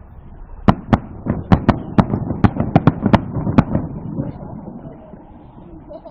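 Fireworks shells bursting in a quick volley: about a dozen sharp bangs over some three seconds, then a fading rumble.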